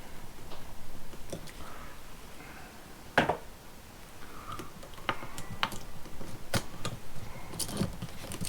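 Scattered small clicks and taps of a screwdriver and stiff copper wires being worked onto the terminal screws of a three-way wall switch, with one sharper click about three seconds in.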